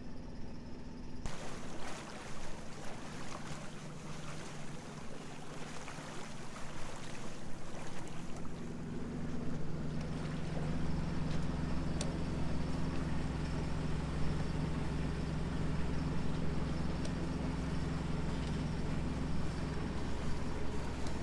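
A sailboat under way: wind and water rush past, with a steady low engine hum that comes up strongly about eight or nine seconds in.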